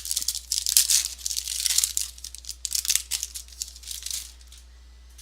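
Crinkling and rustling of plastic trading-card packaging being handled: a dense crackle that stops about four seconds in.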